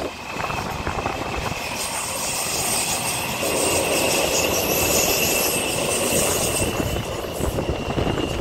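A Taipei Metro electric train running past with a steady rumble and a thin high whine that rises slowly in pitch. A high hiss swells from about two seconds in and fades shortly after the middle.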